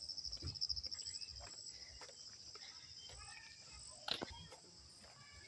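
Insects trilling steadily at a high pitch in a fine, rapid pulse, with a sharp click about four seconds in.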